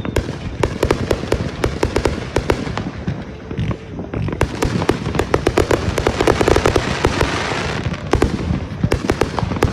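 Consumer fireworks going off: a rapid, continuous run of overlapping cracks and pops, thickening into a dense crackle about six to seven seconds in.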